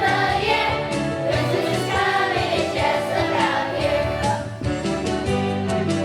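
Students singing a holiday song as a group, with instrumental accompaniment.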